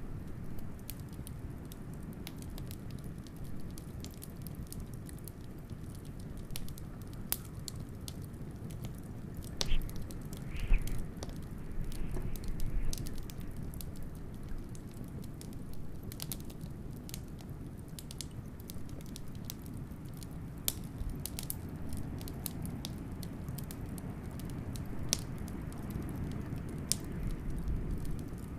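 Wood fire crackling, with many small sharp snaps and a few louder pops, over a steady low rush of blizzard wind.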